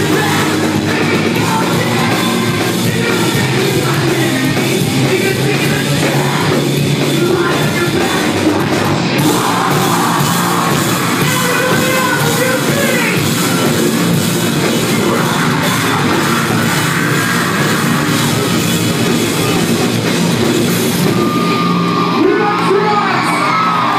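Live rock band playing loudly, with singing and yelled vocals over the band.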